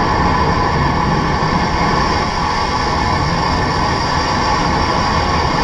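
Blue Origin New Shepard's BE-3 hydrogen-oxygen rocket engine firing at liftoff: a loud, steady rush of engine noise with a deep rumble beneath it.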